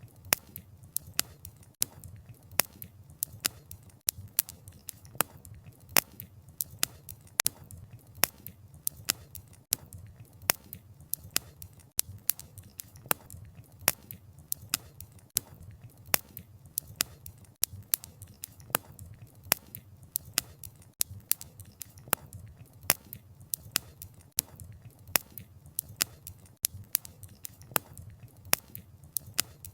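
Wood campfire crackling: sharp, irregular pops of burning logs several times a second, over a soft, low rumble of the flames.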